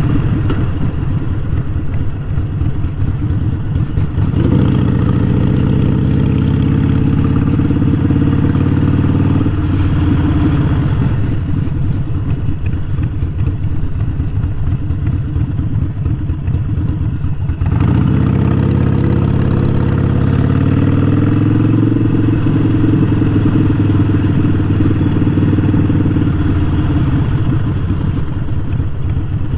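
Harley-Davidson Sportster 1200's air-cooled V-twin engine running under way. It rises in pitch about four seconds in, holds, then after a short break near eighteen seconds climbs again.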